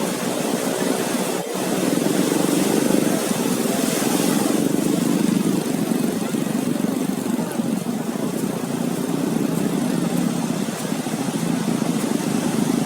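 Steady beach ambience: a constant wash of surf noise with an engine hum from passing traffic mixed in.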